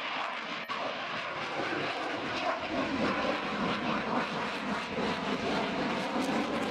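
CF-18 Hornet fighter jet's twin engines heard as a steady jet rush, building in strength and deepening from about two seconds in as the aircraft comes closer.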